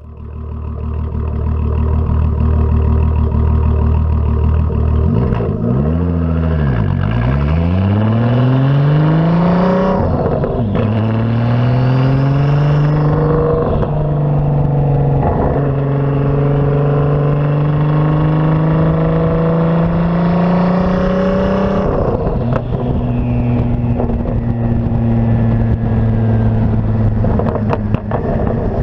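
Turbocharged VW R32 VR6 engine through an aftermarket exhaust: it runs steadily, dips and climbs in pitch, then revs up in two long rising pulls, each ending in a sharp drop in pitch about ten and twenty-two seconds in, before holding steady.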